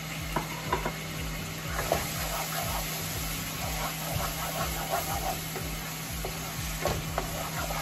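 Onion-and-spice masala gravy sizzling as it fries in a pot, stirred with a wooden spoon that knocks against the pot a few times.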